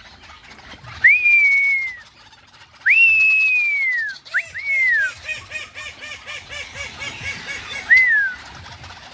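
Caged birds calling: about five clear whistled notes that jump up and slide down in pitch, and in the middle a fast, even run of short repeated notes, about five a second.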